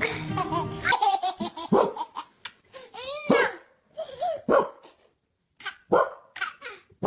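A baby giggling in short bursts, mixed with a dog's yips and barks. Background music stops about a second in.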